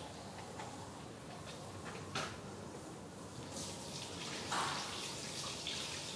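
Tap water running into a bathroom sink, with a couple of small knocks.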